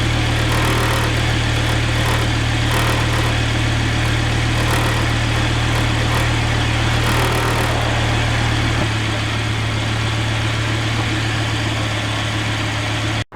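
Volvo S60R's turbocharged five-cylinder engine idling steadily after its first start following a front-end rebuild. Its deepest hum drops away about nine seconds in, and the sound cuts off abruptly near the end.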